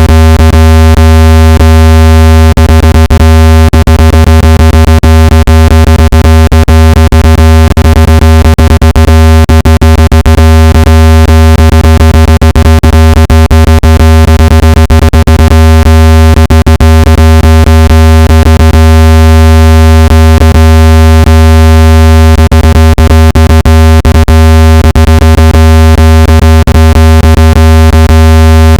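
Loud, steady, low-pitched electronic buzzing tone with a stack of overtones, the kind played through a phone speaker to shake water out of it. It is peppered with sharp crackling clicks.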